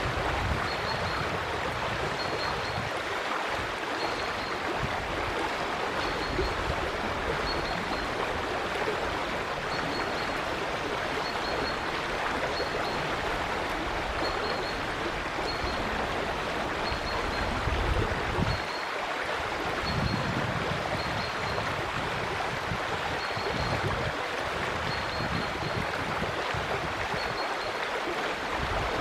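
River water rushing steadily. A bird gives a short high call about once a second over it.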